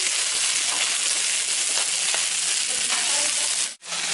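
Pork belly sizzling on a hot grill over a wood-burning stove: a steady frying hiss, broken by a brief gap near the end.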